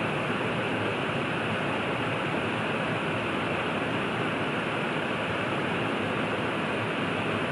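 River water rushing steadily, an even unbroken wash of sound with no change in level.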